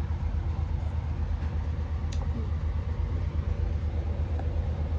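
Cabin noise inside a moving Class 220 Voyager diesel-electric train: a steady low rumble from the underfloor diesel engine and running gear, with an even hiss over it. A single small click about two seconds in.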